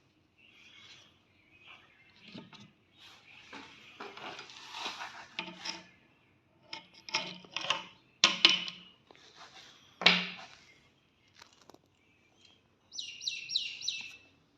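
Sharp metallic clicks and scrapes of hard parts being handled, loudest about 8 and 10 seconds in. Near the end comes a bird's call of four quick chirps, each falling in pitch.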